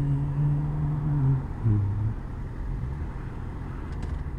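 Motorcycle on the move: a steady engine note over road and wind noise, with a held engine tone for about a second and a half at the start and a shorter, lower one about two seconds in.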